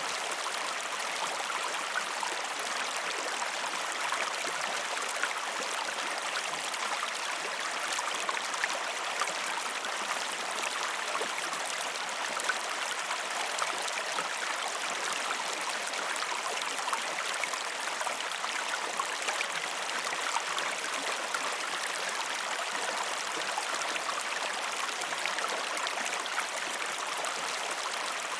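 River water rushing and splashing over rocks, a steady even rush with small splashes through it.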